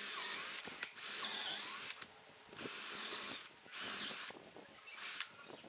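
A handheld power tool working wood, run in about five bursts of roughly a second each with short pauses between, its pitch wavering as it loads and unloads.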